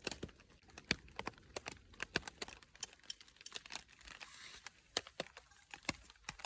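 Scattered raindrops tapping on a rain shelter: irregular sharp ticks, several a second, with a brief soft hiss about two-thirds of the way through.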